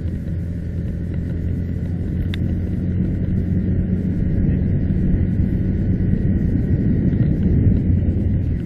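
Steady low drone of a car's engine and road noise while driving, with one short click a little over two seconds in.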